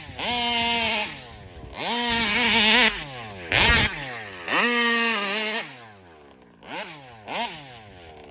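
Big-bore two-stroke gas engine of a large-scale RC car revved hard: three full-throttle runs of about a second each, the pitch climbing steeply then holding high, with a brief harsh burst around the middle and two quick throttle blips near the end.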